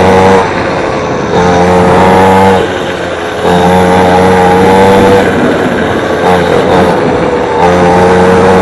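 A 50cc mini dirt bike's engine running hard at high revs, still in break-in. Each held run of throttle stays at a fairly steady pitch, broken by short off-throttle drops in loudness: about half a second in, around three seconds, and again between about five and seven and a half seconds.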